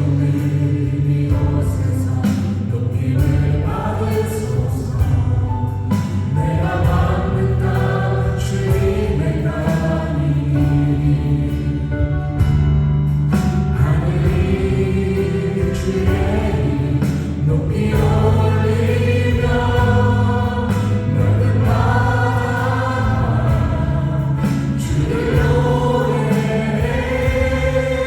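Worship band performing a praise song: several singers together over keyboards, drums and acoustic guitar.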